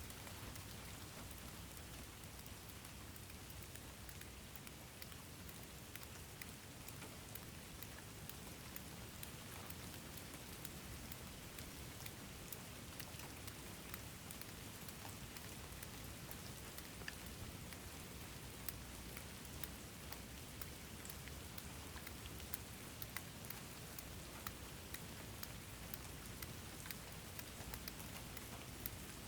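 Steady rain hissing, with individual drops ticking sharply on a surface, the ticks coming more often in the second half.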